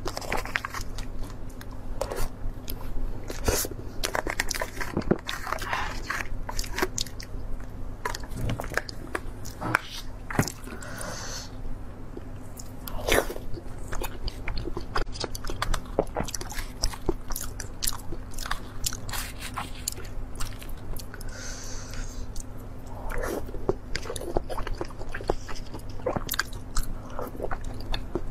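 Close-miked eating sounds of a person chewing and biting food, with many small clicks and mouth noises throughout, over a steady low hum.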